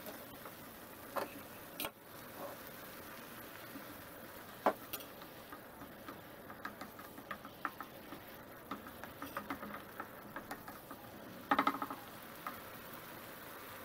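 Wooden spatula stirring a thick tomato sauce in a non-stick frying pan: faint, scattered soft clicks and taps, with a short quick cluster of clicks near the end.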